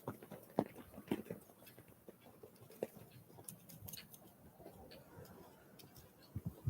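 Small wild birds at a feeder: irregular light taps and clicks of pecking and hopping, with a few faint short high chirps about halfway through.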